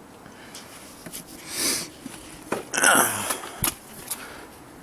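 A person's breathy exhales, twice, with a few sharp clicks.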